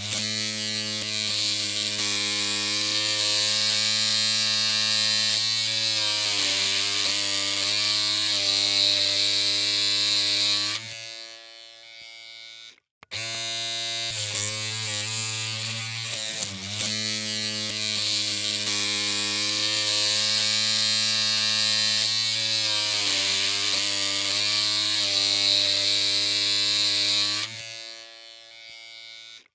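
Electric hair clippers running with a steady humming buzz. It falls quieter about eleven seconds in, stops briefly, then starts again and runs on before falling quieter and stopping once more near the end.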